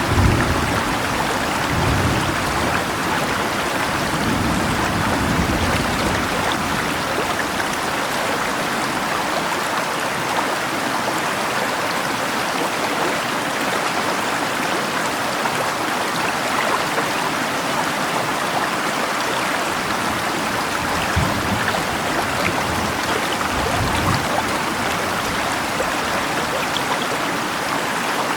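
River water rushing and splashing steadily, with rain falling over it. A low rumble swells under the water in the first few seconds.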